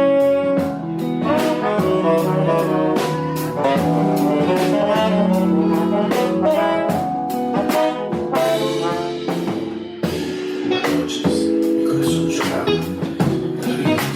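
Live jazz sextet playing: tenor saxophone and trombone holding horn lines over piano, electric guitar, electric bass and a drum kit keeping a steady beat with cymbals.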